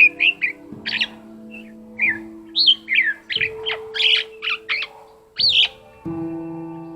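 Black-collared starling singing a varied song of short gliding whistles mixed with harsh, scratchy notes, over background music of held chords.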